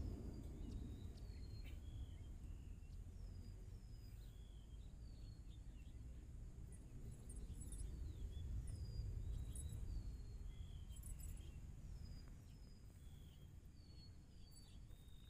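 Quiet outdoor ambience: a low steady rumble with small birds chirping, short high falling chirps repeated every second or so.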